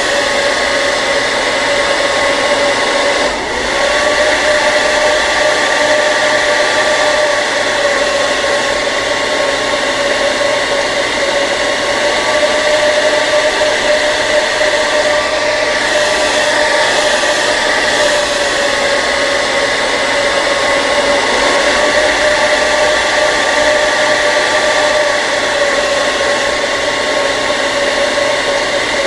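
Hair dryer running continuously: a steady blowing rush with a constant fan whine, with a brief dip in level about three seconds in.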